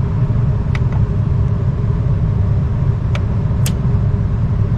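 Lennox rooftop package unit running with a steady low rumble and hum while its fan 4 condenser fan motor is energized in test mode; three faint short ticks, one about a second in and two just past the middle.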